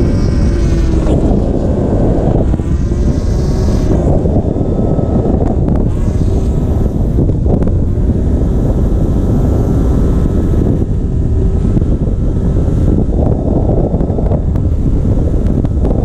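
BMW E46's S54 straight-six engine revving up and down as the car is driven hard on a track, under heavy wind buffeting on the microphone.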